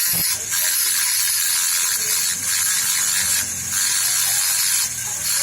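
Steady, harsh rasping of workshop tool work with a few short breaks.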